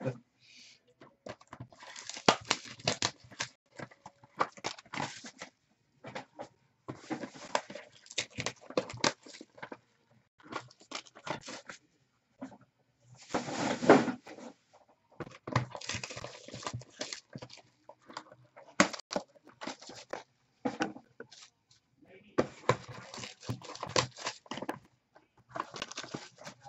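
Foil-wrapped trading-card packs and boxes being handled and sorted: bursts of crinkling, rustling and light tapping that come and go every second or two.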